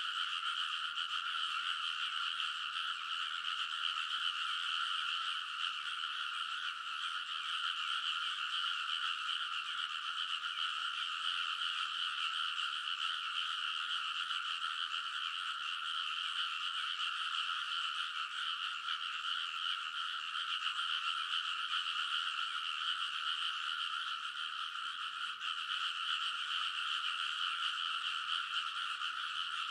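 A large chorus of frogs calling in a rice paddy in early summer, the breeding season: many overlapping, high-pitched croaks merging into a loud, steady wall of sound with no breaks.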